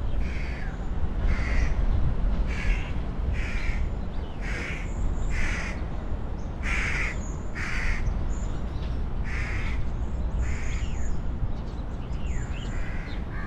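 A bird calling over and over, about once a second, above a steady low rumble.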